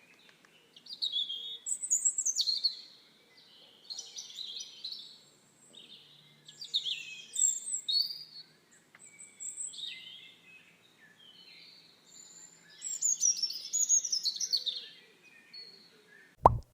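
Birdsong: bursts of quick chirps and falling twittering phrases, a pause of a second or two between bursts. A short, loud low thump near the end.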